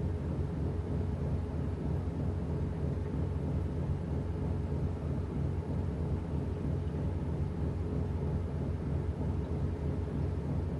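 Washing machine running with a steady low motor hum and rumble.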